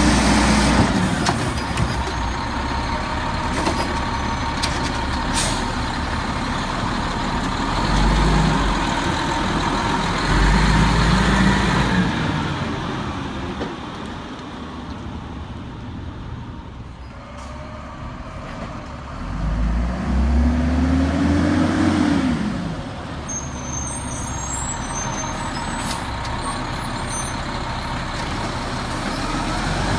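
Peterbilt 320 garbage truck's diesel engine running, with a growl, revving up in several surges. About two-thirds of the way through, a rev rises and then falls away. There are a few short sharp noises, such as air hisses or clanks.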